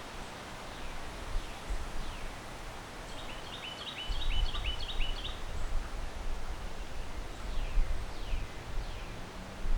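Wind gusting through backyard trees, with rustling leaves and a low rumble that grows stronger about four seconds in. A bird calls a quick run of short chirps about three seconds in, with a few fainter falling chirps.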